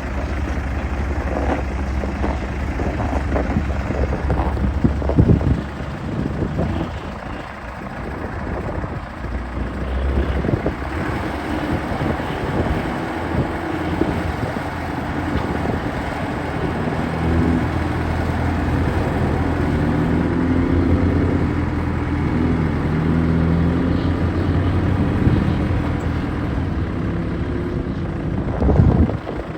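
Diesel engine of a 2012 Massey Ferguson 2680 HD front-wheel-assist tractor running, its note changing a few times before settling steady.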